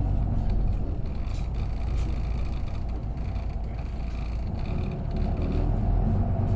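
Isuzu KK-LR233J1 route bus heard from inside the cabin while driving: a steady low diesel engine hum with faint rattles, easing off a little through the middle and building again near the end.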